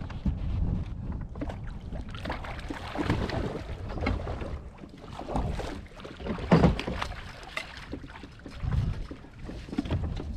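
Wind rumbling on the microphone over water sounds around a fishing kayak, with a sharp knock about six and a half seconds in.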